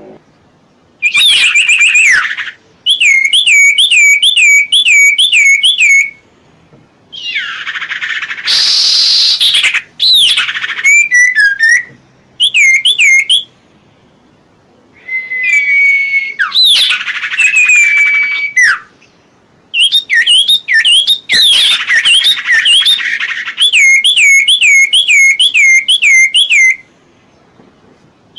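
A songbird singing in phrases of quick repeated whistled chirps, mixed with a few harsh rasping notes, with short pauses between phrases.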